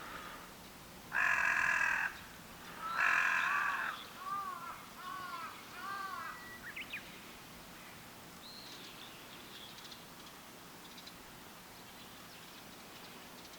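Two loud, harsh bird calls about two seconds apart, followed by a run of four shorter rising-and-falling calls, then faint high chirps.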